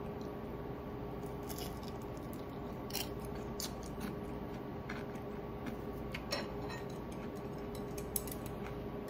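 Crisp deep-fried ponyfish (hiiragi) being bitten and chewed: scattered sharp crunches and crackles, a few seconds apart, over a steady low hum.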